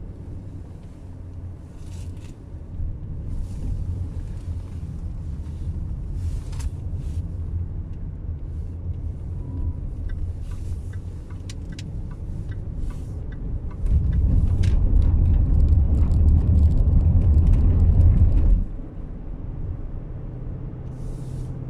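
Low, steady rumble of a car's engine and road noise heard from inside the cabin while driving, growing clearly louder for a few seconds past the middle, then dropping back.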